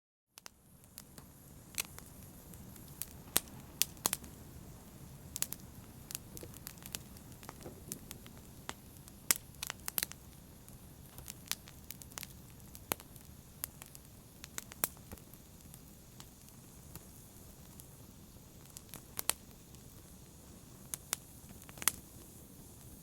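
Wood fire in a fireplace crackling, with sharp irregular pops over a low steady rumble of flame, starting about half a second in.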